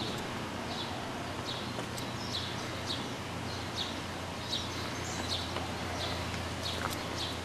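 A bird chirping over and over, short high falling notes about twice a second, over a steady low hum and outdoor background noise.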